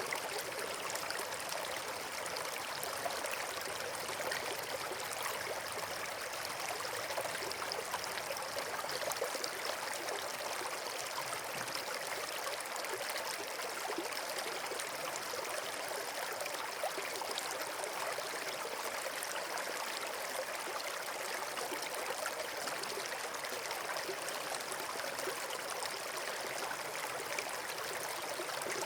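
Flowing water rushing steadily, a continuous stream-like wash with fine splashing texture.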